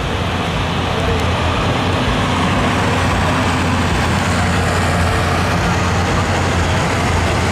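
Diesel pickup truck engine running loudly and steadily at an even speed.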